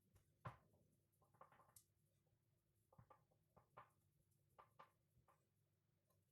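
Near silence with faint, scattered light taps and clicks of hands and utensils at kitchen work.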